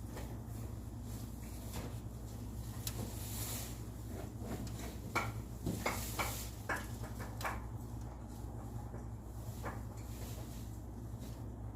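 A steady low hum, with a quick run of sharp clicks and knocks from about five to seven and a half seconds in.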